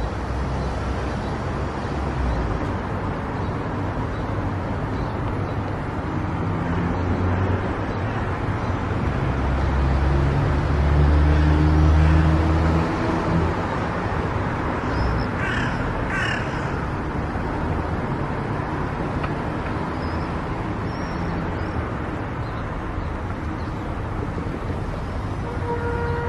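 Steady road noise of a car driving, with a deeper rumble swelling for a few seconds near the middle. About two-thirds of the way through come two short harsh calls.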